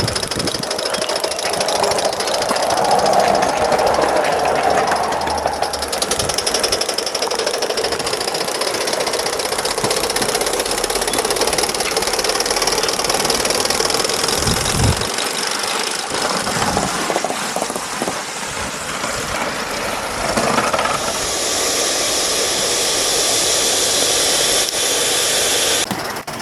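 Gauge 1 live-steam GWR Hall Class model locomotive running: a fast, even chuffing with steady steam hiss. The hiss grows louder about three-quarters of the way through.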